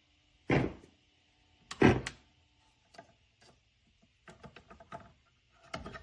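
Handling noise on a record player: two heavy thumps about half a second and two seconds in, then a run of lighter clicks and knocks.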